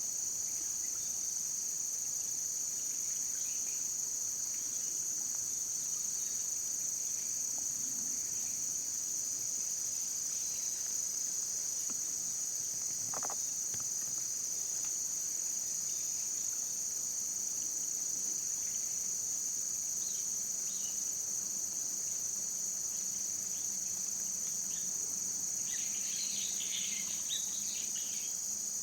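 Steady high-pitched chorus of insects, typical of late-season crickets, with a few faint short chirps near the end.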